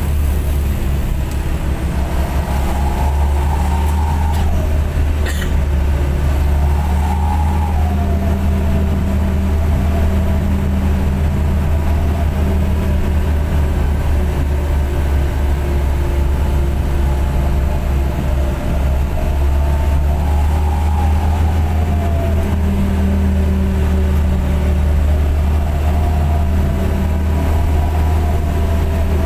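Minibus engine and aftermarket racing exhaust running steadily under way, a heavy low drone whose pitch rises and falls gently with the revs.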